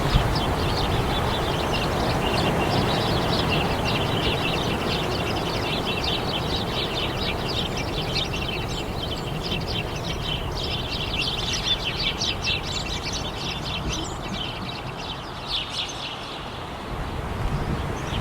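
A flock of birds calling in rapid, overlapping short chirps, thinning out near the end, over a steady low rumble of background noise.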